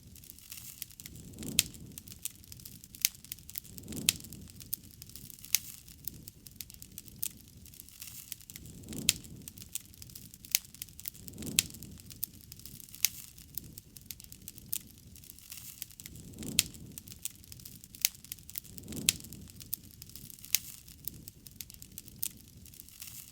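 Campfire burning, a dense run of sharp wood crackles and pops, with soft low puffs of the flames every few seconds.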